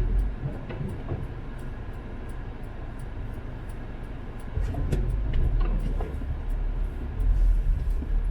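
Steady low rumble of a car's road and engine noise heard from inside the cabin while driving, growing louder about four and a half seconds in.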